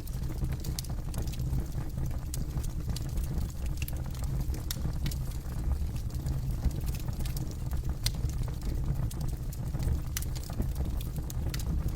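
Campfire burning: wood crackling with irregular sharp pops over a steady low rumble of the flames.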